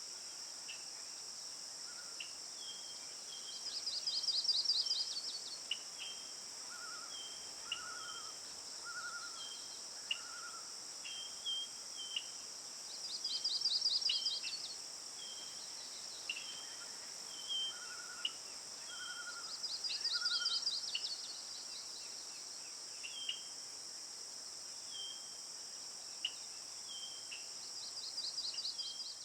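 Outdoor birdsong over a steady high insect drone. A rapid pulsed trill swells and fades every six to ten seconds and is the loudest sound. Short sharp chirps and soft whistles in runs of three or four fall between the trills.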